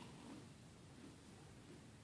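Near silence: faint, low background noise with no distinct event.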